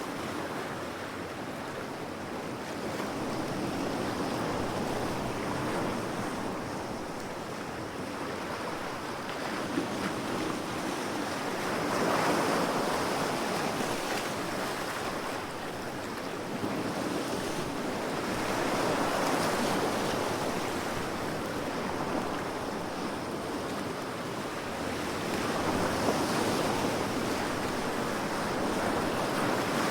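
Ocean waves surging and washing on the shore in a continuous rush that swells and fades again roughly every seven seconds.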